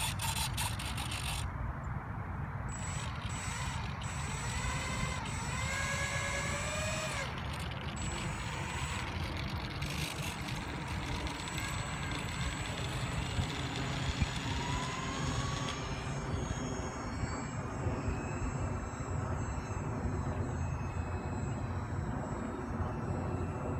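Remote-control twin-engine Aero Commander model aircraft running under a steady low rumble, with a rising whine about five to seven seconds in and a shorter one near the middle.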